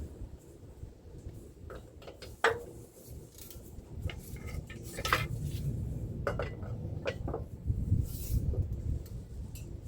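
Metal hand tools clinking against bolts and the differential housing: a socket wrench on a wobble extension working small 11 mm bolts, a series of sharp irregular clinks with brief ringing, the loudest about two and a half seconds in.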